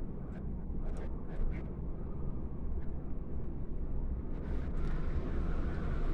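Blizzard wind of about 28 metres per second buffeting the microphone as a deep, steady rumble, with a few sharp clicks in the first couple of seconds. About two thirds of the way in, a hiss of gusting wind rises over it.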